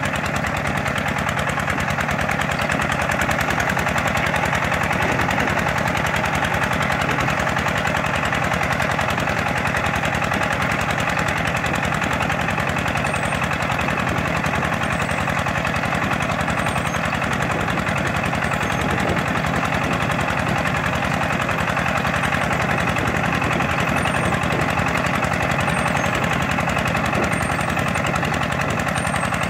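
Tractor engine running steadily with a fast even pulse, the steady level holding throughout.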